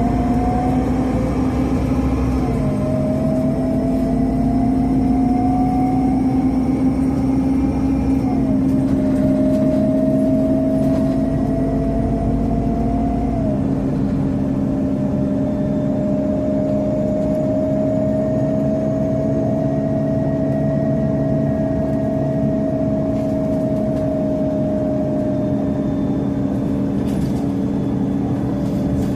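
Scania CN270UB compressed-natural-gas city bus heard from inside the cabin, pulling away with a rising drivetrain whine that drops back at three gear changes, then running at a steady cruising speed with an even engine drone.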